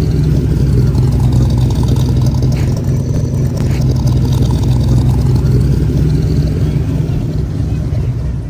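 A car engine running steadily, heavy in the low end.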